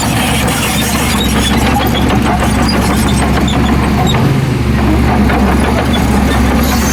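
Heavy diesel engine running steadily, with scattered small clicks and clanks over the engine note.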